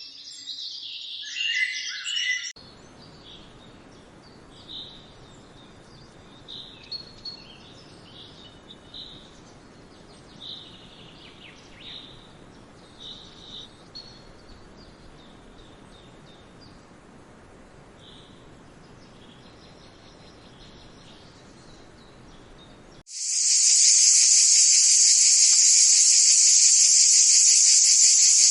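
Birds chirping for the first couple of seconds, then short faint bird chirps over a low steady background hiss. About 23 seconds in, a loud, steady, shrill insect drone starts abruptly.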